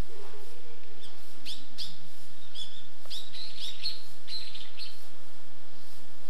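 A small songbird chirping: a quick run of short, high, down-sweeping chirps between about one and five seconds in, over a steady background hiss.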